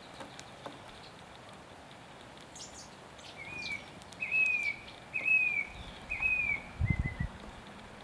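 A small songbird calling: four loud, clear down-slurred notes about a second apart, then a shorter, weaker fifth note. A few soft low thumps come near the end.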